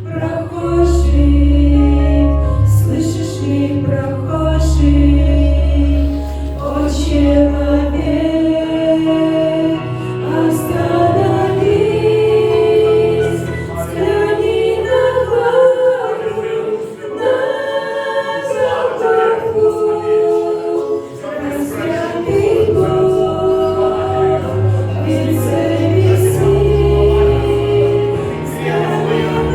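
A choir singing a Christian hymn, with low held notes under the voices.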